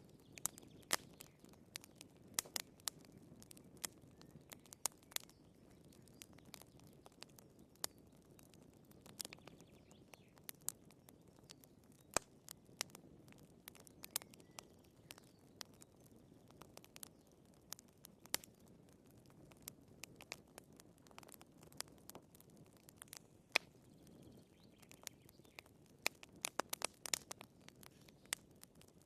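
Wood fire in a fireplace burning with a soft, steady rush of flames and frequent irregular crackles and pops from the burning firewood, the pops coming thickest near the end.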